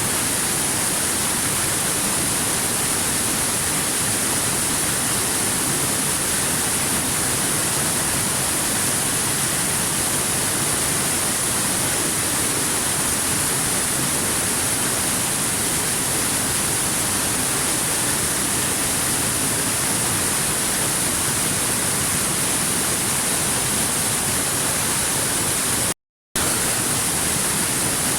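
Waterfall: a steady, unchanging rush of falling water with a strong high hiss, cut by a split-second dropout to silence near the end.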